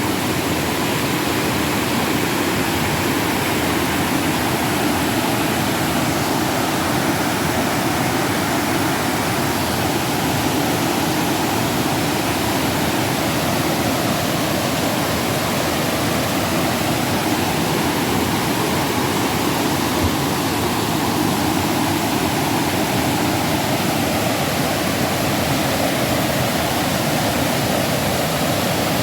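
Steady, loud rushing of flowing river water.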